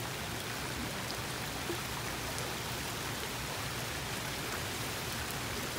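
Steady rain with water running through a drainage ditch that has just been cleared of a leaf clog.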